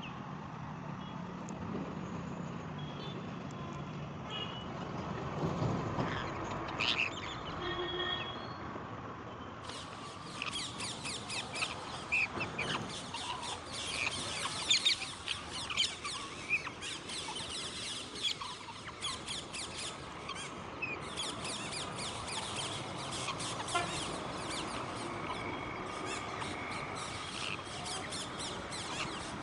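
Parrots chattering: a few scattered calls, then from about ten seconds in a dense run of rapid, high chirps from many birds at once.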